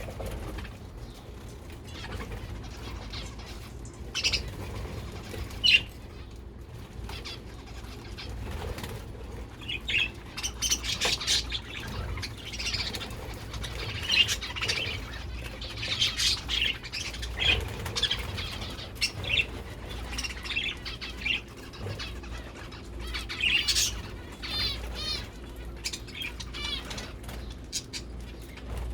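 A mixed aviary of small cage birds, zebra finches and canaries among them, chirping and calling in short high notes, with occasional wing flutters and a brief run of quick repeated notes near the end.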